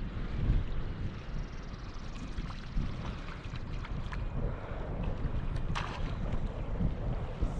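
Wind buffeting the microphone on a kayak out on open water, a steady low rumble, with a few short sharp ticks; the clearest comes about six seconds in.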